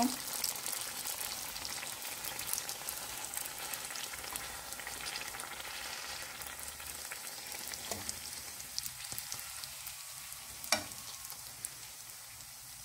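Small balls of sfenj yeast dough sizzling and crackling as they deep-fry in hot oil in a pan, the crackle easing off gradually. A sharp click stands out about eleven seconds in, with a fainter one shortly before.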